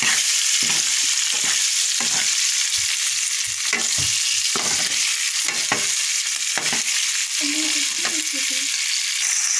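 Onion and green pepper chunks sizzling steadily in hot oil in a steel kadai. A metal ladle scrapes and knocks against the pan repeatedly as they are stirred.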